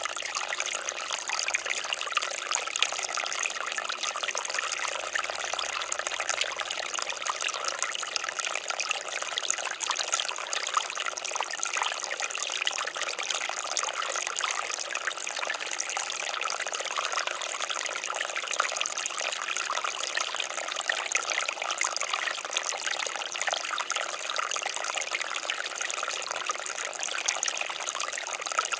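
Water fountain splashing steadily, an even patter of falling water that is mostly high in pitch with little low rumble.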